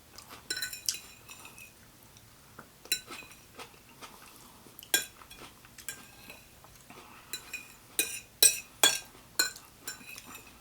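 Metal cutlery clinking and tapping against a dish in irregular clicks, a few with a short bright ring, with a quicker run of sharper clinks near the end.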